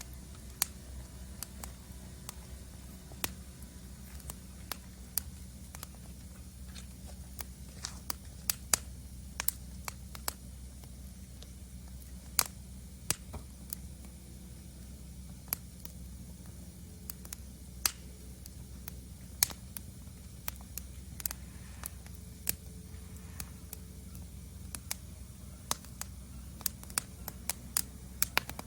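Wood fire in a fire stand crackling: irregular sharp pops and snaps, some loud, over a low steady rumble.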